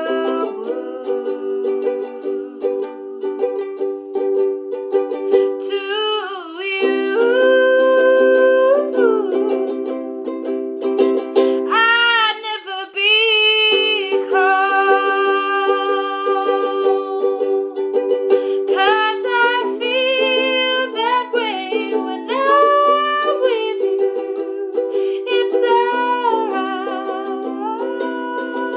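Ukulele playing held chords under a voice singing a slow melody in phrases of a few seconds each, with short gaps between them.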